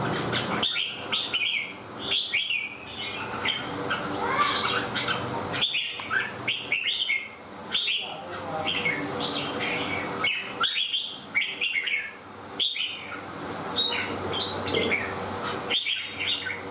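Red-whiskered bulbul singing: a steady run of short, clear whistled phrases, one after another, each sweeping up and down in pitch.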